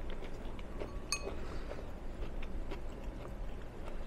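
Close-miked chewing of barbecue cauliflower bites, with small wet mouth clicks, and one light ringing glass clink about a second in.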